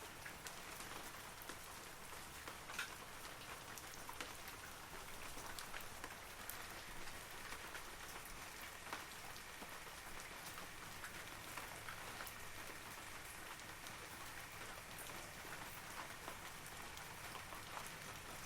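Steady rain falling on forest trees and foliage, with many separate drops pattering throughout.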